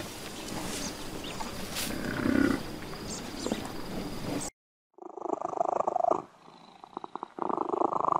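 A red deer stag's rough, noisy roar for about the first four and a half seconds; then, after a short break, a domestic cat purring in rhythmic pulses.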